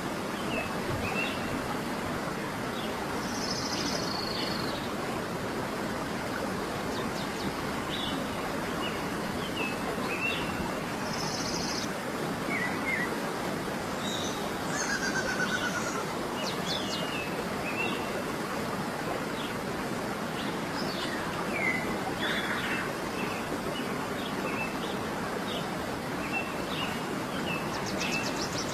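Birds chirping and calling, with short scattered notes and quick slurred phrases, over a steady rushing background noise.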